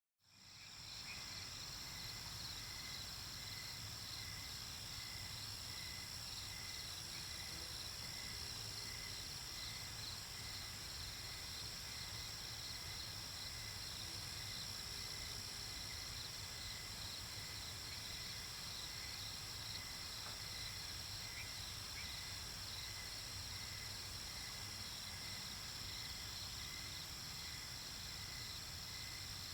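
Night-time chorus of crickets and other insects: steady high trills with a regular pulsing chirp beneath, fading in from silence at the start.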